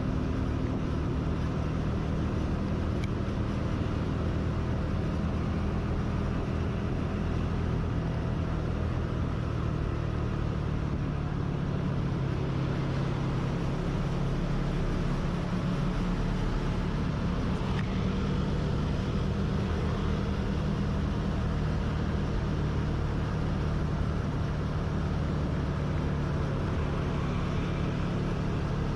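Motorcycle engine running steadily while riding, its pitch shifting a little a few times, over constant road and wind noise.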